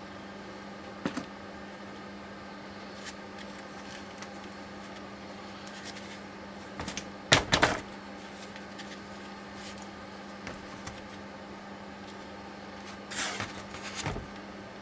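Scattered clicks and knocks of tools and parts being handled while a steering rack is taken apart: a pair about a second in, the loudest cluster about seven seconds in and a rattling run near the end, over a steady low hum.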